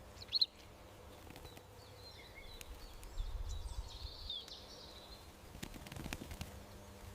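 Small garden songbirds calling: one sharp high chirp about half a second in, then a run of twittering from about two seconds in, over faint outdoor background noise.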